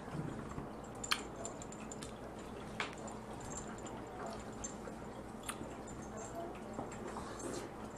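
Close-miked eating of Dungeness crab: wet chewing and squishing of crab meat, with about three sharp clicks along the way.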